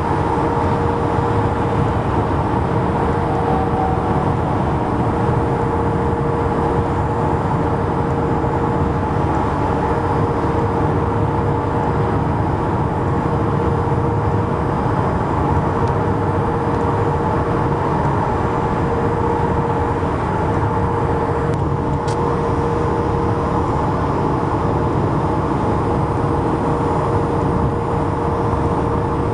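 Steady road noise of highway traffic, an even hum with a constant tone running through it. A brief faint click comes about three quarters of the way through.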